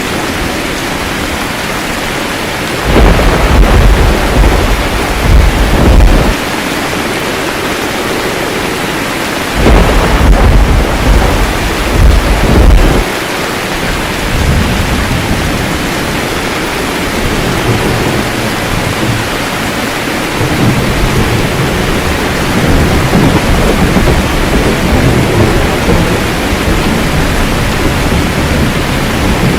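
Steady heavy rain with thunder: two loud, deep rolls of thunder, one about three seconds in and another about ten seconds in, each lasting around three seconds, then lighter rumbling under the rain later on.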